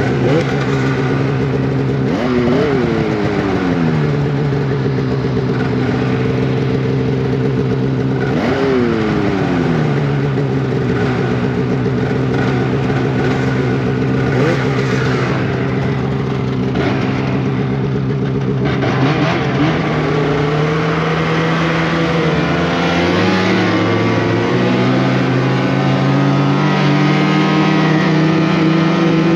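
Polaris Indy Cross Country 600 snowmobile's two-stroke twin engine running at a steady cruising pitch. The revs rise briefly and drop back twice in the first ten seconds, then climb gradually over the last ten seconds.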